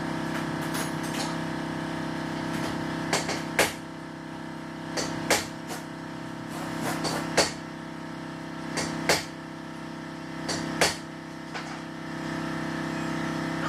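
Sharp metallic knocks and clanks, about a dozen in irregular groups, over a steady machine hum.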